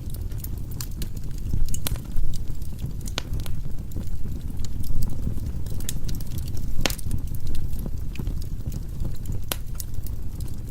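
Firewood burning in a fireplace: a steady low rumble of the fire with scattered sharp crackles and pops, the loudest pop about two-thirds of the way through.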